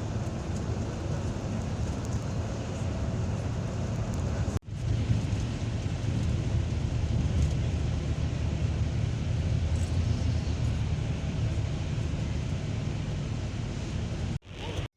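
Steady low rumble and hiss of a moving vehicle's road noise, cut off for a moment about four and a half seconds in and again near the end.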